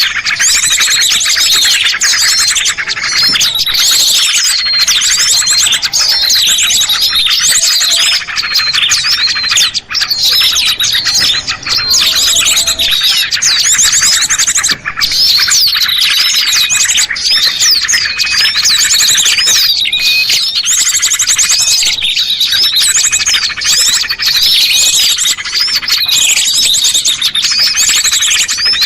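Bird-lure recording of small songbirds calling continuously and overlapping: high chirps, slurred whistles and very fast trills.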